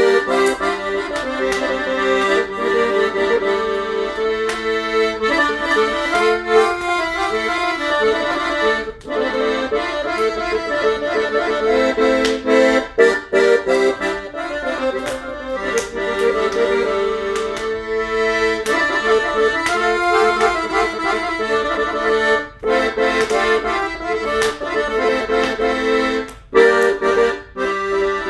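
Accordion playing a traditional melody over sustained chords, with a few brief breaks between phrases.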